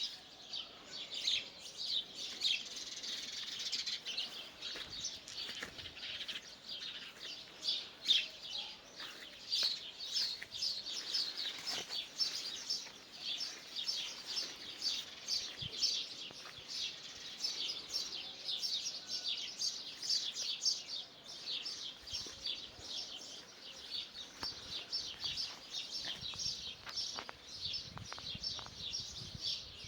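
Small birds chirping, many short overlapping chirps in a continuous chorus.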